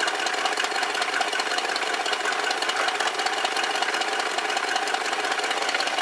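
1969 Lincoln Mark III's 460 V8 idling steadily at about 700 rpm, still a little cold, running smoothly on its new coil and plug wires after a bad miss.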